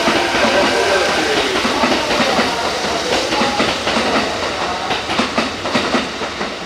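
Electric train running along the station track, wheels clacking over rail joints, with a whine over the noise in the first couple of seconds.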